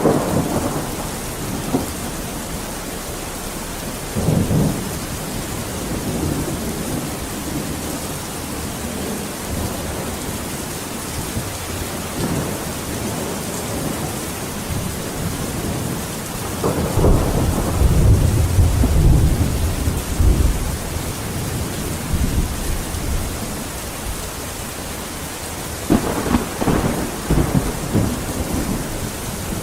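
Steady heavy rain hissing, with rolls of thunder rumbling through it: brief ones at the start and about four seconds in, a long deep roll from about seventeen to twenty-one seconds, and another near the end.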